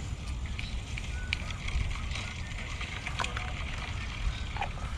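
Wind buffeting the microphone as a steady low rumble, with a few light clicks.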